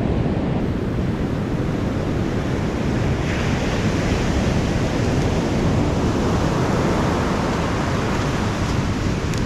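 Surf breaking and washing on a beach, a steady rush of waves with wind buffeting the microphone; a brighter hiss of a wave washing in rises about three seconds in and fades near the end.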